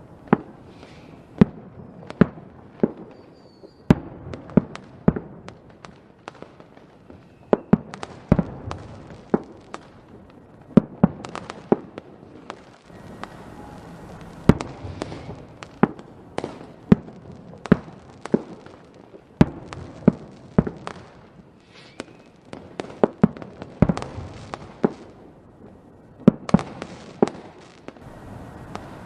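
Fireworks going off in an irregular string of sharp bangs and pops, a few with short echoing tails, over continuous crackling, with faint whistles from rising shells.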